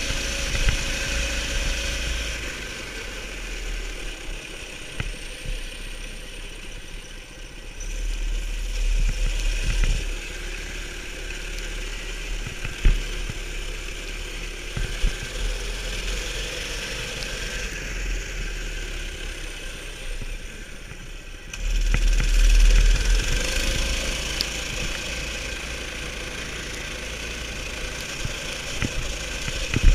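A 290cc mini bike engine running steadily, with louder surges about eight seconds in and again, abruptly, about 22 seconds in.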